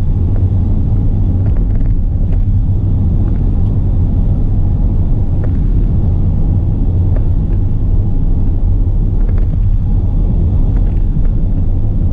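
Cab of a 2018 Fiat Ducato recovery truck at speed: the 2.3-litre diesel engine running steadily under the low rumble of road and tyre noise.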